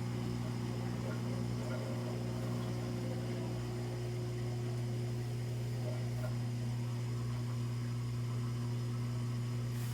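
LG front-loading washing machine's drain pump running during its diagnostic drain test, a steady low hum as it pumps the water out of the drum.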